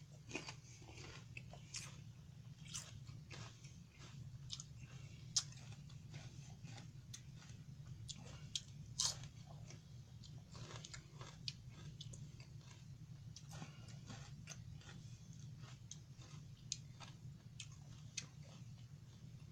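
A person eating close to the microphone: irregular crunchy bites and chewing, with a steady low hum underneath.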